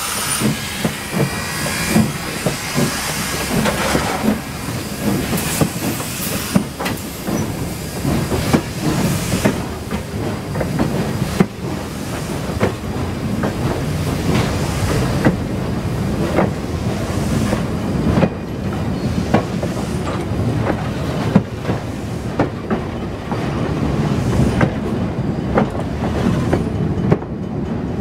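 A steam-hauled train running on the rails: steady rumble with irregular clicks of wheels over rail joints, and a hiss of steam that fades after the first several seconds.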